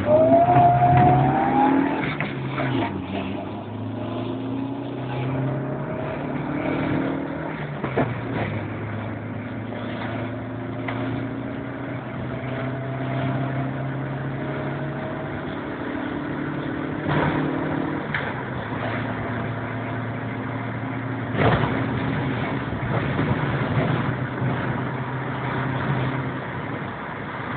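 Supercharged Honda H22A2 four-cylinder in a swapped Fiat Cinquecento running under load. A supercharger whine rises in pitch over the first two seconds, then the engine holds fairly steady revs with a few changes in pitch. There are several sharp knocks, one about eight seconds in and others later.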